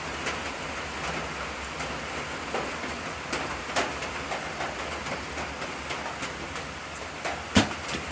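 Steady rain falling, with scattered close drops ticking sharply through it. About seven and a half seconds in comes one louder, sharp knock.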